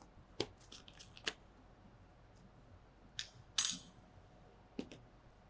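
Light clinks and taps of laboratory glassware and a metal spatula being handled, a few separate sharp knocks, with a short scrape about three and a half seconds in.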